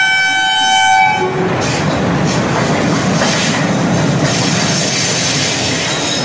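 Locomotive horn sounding one steady tone that cuts off about a second in, followed by a train rolling through the station with a loud rumble and wheels clattering over the rail joints.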